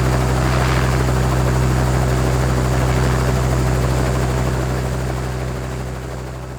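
Helicopter idling on the ground, a steady drone with several held engine and rotor tones, fading out over the last two seconds.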